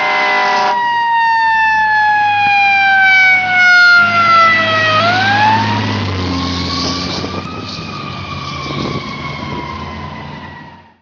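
Emergency vehicle siren wailing in a slow cycle: it falls in pitch for about five seconds, rises, then falls again, over the low rumble of the vehicle's engine. A steady horn blast cuts off under a second in.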